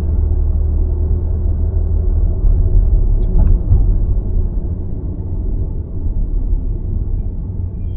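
Car on the move: a steady low road and tyre rumble, with one short click about three seconds in.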